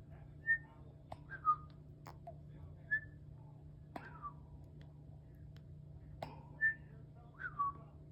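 Parrot whistling: a short steady whistle note followed by a falling whistle, the pair repeated about three times, with a few sharp clicks between.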